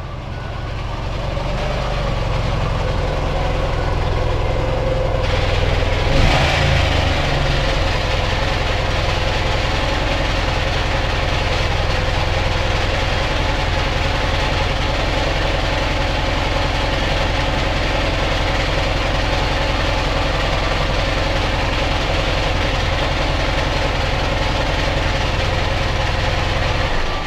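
Ural motorcycle's flat-twin engine running steadily, with a brief louder burst about six seconds in.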